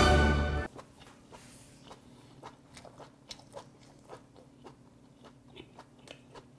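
A person chewing a mouthful of sea hare meat, with soft, irregular mouth clicks a few times a second; the flesh is chewy and spongy rather than crisp. A short burst of music ends about half a second in.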